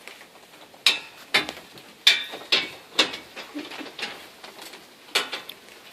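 Irregular sharp metal knocks and clanks, about eight, some ringing briefly, from tools and old garage door hardware being worked loose.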